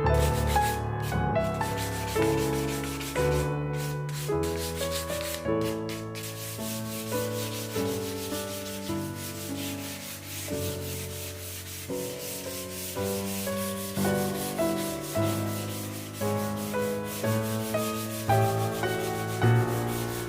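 Sandpaper rubbing over a wooden tabletop board in quick repeated strokes, with soft piano background music underneath.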